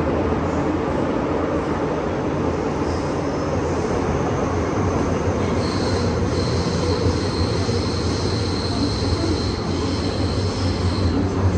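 MTR M-Train electric multiple unit running at speed, with a steady rumble of wheels on rail. A high, thin wheel squeal sets in about halfway through and fades near the end.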